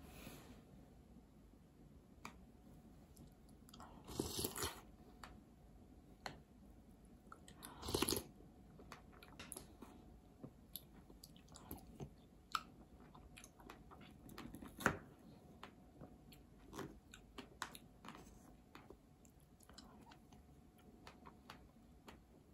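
Faint chewing and biting of fresh strawberries soaked in milk, with many small clicks of utensils against the bowl and two longer, louder stretches of noise about 4 and 8 seconds in.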